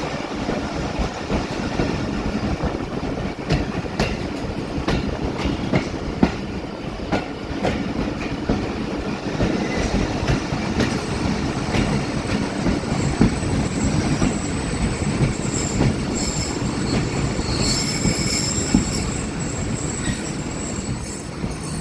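Passenger train running on the track, with a steady rumble and a run of wheel clacks over rail joints. A high steel-on-steel wheel squeal joins in during the second half as the train draws into the station.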